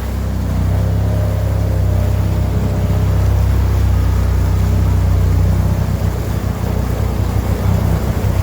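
Honda Pioneer 1000 side-by-side's engine running under throttle: a steady low drone that picks up about half a second in, with a brief dip near the end.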